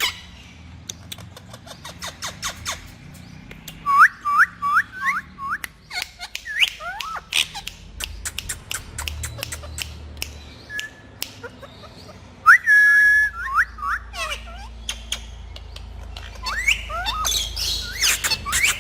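Pet parrots whistling and calling: a quick run of short rising chirps, a loud held whistle about two-thirds of the way in, and busier squawky calls near the end, among many sharp clicks.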